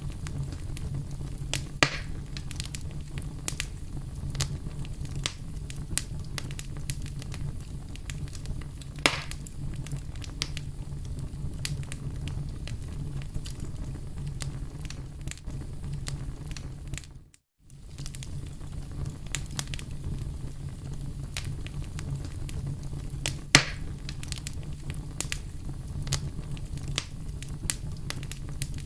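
Wood fire crackling steadily over a low rumble, with many small sharp pops. Louder pops come about 2 s in, about 9 s in and near 24 s. The sound drops out completely for a moment a little past the middle.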